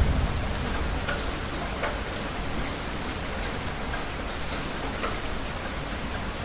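Heavy rain falling steadily, with scattered individual drops ticking sharply against a surface. The end of a low thunder rumble fades away in the first moment.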